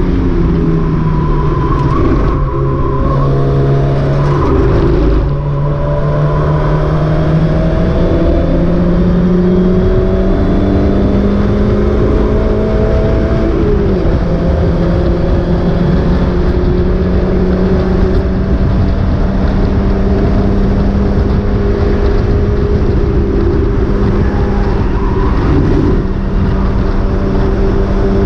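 Mazda MX-5 race car's four-cylinder engine heard from onboard under racing load, its note stepping up and down through gear changes in the first few seconds, then climbing steadily for several seconds before dropping suddenly about halfway through and holding fairly steady. The engine is running with a misfire.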